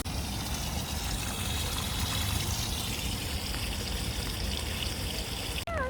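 Steady rushing of fast-flowing water in a strong current.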